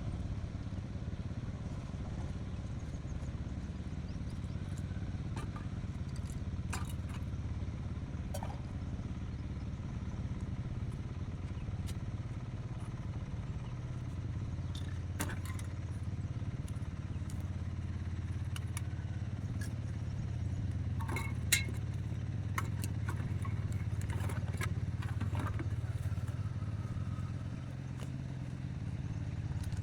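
A small engine running steadily, with scattered light clicks and clatter and one sharper click about two-thirds of the way through.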